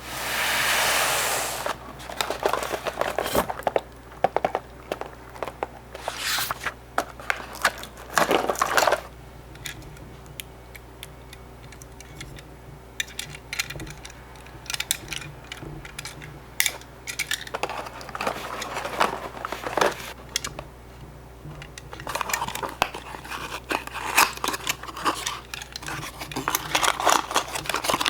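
Small die-cast toy cars and their cardboard boxes being handled: scattered light clicks and taps with bouts of cardboard rustling, after a loud hiss in the first second and a half.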